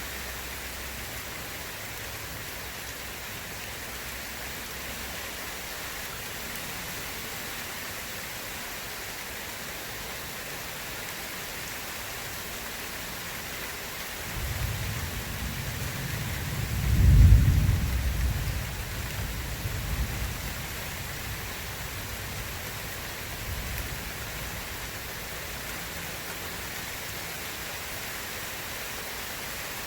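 Steady rain hissing throughout, with a rolling thunderclap that builds about halfway through, cracks loudest a few seconds later and rumbles away, followed by a fainter rumble.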